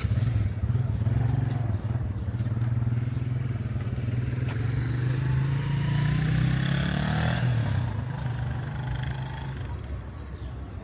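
A motor vehicle's engine running close by as it passes on the street, its low note rising a little past the middle, then dropping and fading away.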